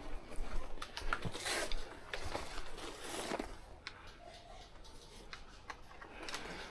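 Rustling of clothing and gear with scattered sharp clicks. The rustling swells a few times in the first half and then fades.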